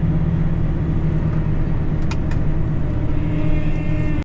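Tractor engine running steadily at a constant speed, with a couple of light clicks about two seconds in.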